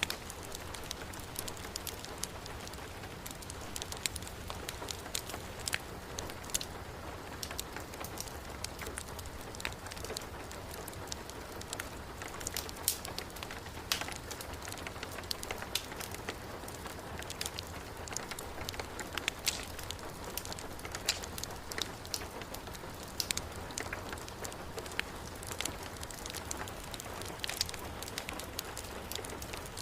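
Heavy rain falling steadily as an even hiss, mixed with a wood fire in a fireplace crackling, its irregular sharp pops scattered throughout.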